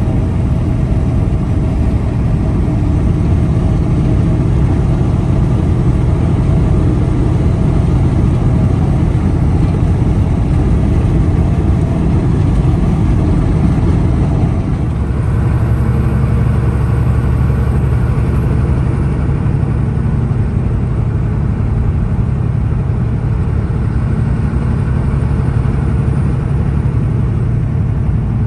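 Heavy truck driving, with a steady low engine drone and road rumble. About halfway through, the low rumble grows heavier.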